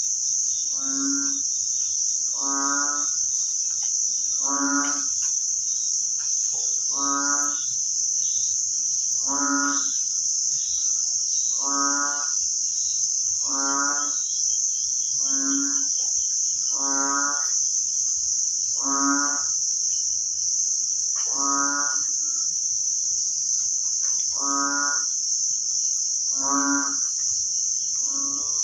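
An animal calling over and over, a short call every two seconds or so, about fifteen calls in all, over a steady high-pitched insect drone.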